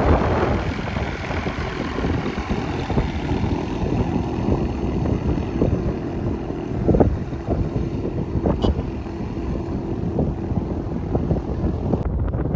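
Wind buffeting the microphone, a loud and uneven low rumble, with a faint steady engine hum underneath.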